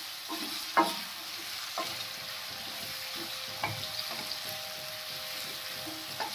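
Sliced guava frying over a high flame in a metal kadhai, sizzling steadily, while a spatula stirs and scrapes the pieces with a few short knocks against the pan.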